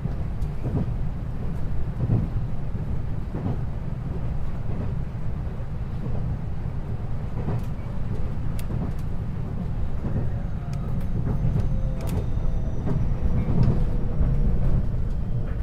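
Running noise heard inside a JR 521-series electric multiple unit's motor car: a steady low rumble of wheels on rail with scattered short clicks. About ten seconds in, faint whining tones from the traction equipment join in, one slowly falling, as the train nears its next stop.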